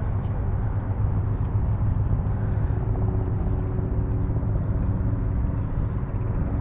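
Steady low engine rumble, with a faint steady hum joining in about halfway through.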